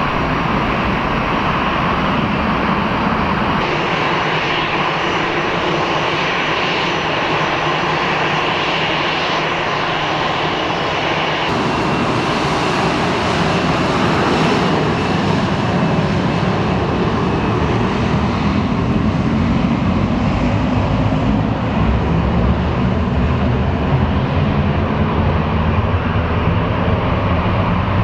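Airbus A321 jet airliner taking off on a wet runway, its engines at takeoff thrust in a steady roar. A low rumble builds in the last third. The first few seconds, before a cut, belong to the tail of a four-engine Airbus A340 departure.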